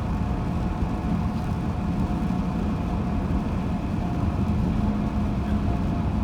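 Steady road and engine noise inside a moving car's cabin at highway speed, an even low rumble with faint steady hums and no change through the stretch.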